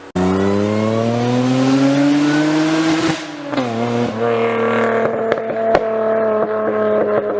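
Car engine accelerating hard, its pitch climbing for about three seconds, then falling away and settling into a steady, even note. A few sharp clicks sound over the steady part.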